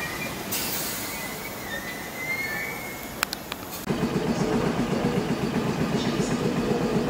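Electric multiple unit at a station platform: an air hiss with thin squeals, then a couple of sharp clicks. Just before four seconds in, a louder low rhythmic pulsing starts, about six beats a second.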